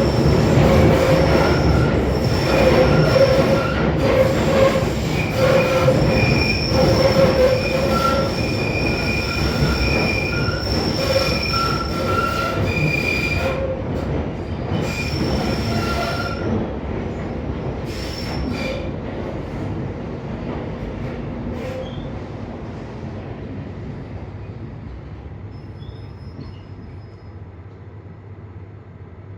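London Underground Northern line train, heard from inside the carriage, running round the tight Kennington Loop. Its wheels squeal in broken high tones over the running rumble. About halfway through the squeal dies away and the noise fades steadily as the train slows towards a stop at a signal.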